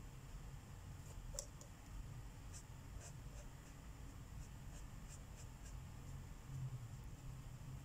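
Marker tip stroking on paper: a run of short, faint scratches, several a second in places, over a low steady room hum.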